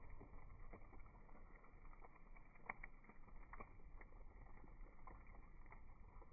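Firewood burning in a small wood-fired grill, crackling faintly with scattered sharp pops over a low rumble.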